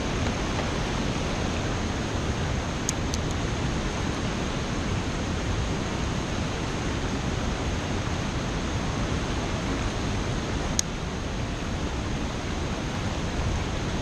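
River water rushing steadily around a wading angler, a continuous even hiss with a few faint sharp clicks.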